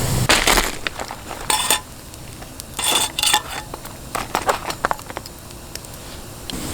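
Metal cookware and utensils clattering and clinking as they are handled, in a few separate bursts with small clicks between.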